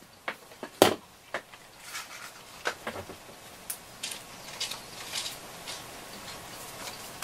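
Scattered light clicks and taps of small tools and parts being handled on an electronics workbench during desoldering work, with a few short scratchy rustles in the middle; the sharpest click comes about a second in.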